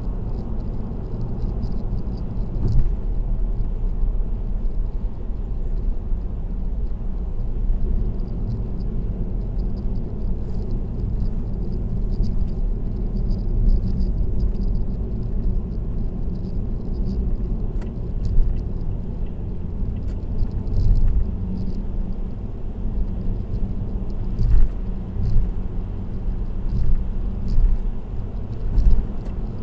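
Steady low rumble of tyre and road noise from a car driving on an expressway, with several brief knocks or thumps scattered through it, most of them in the second half.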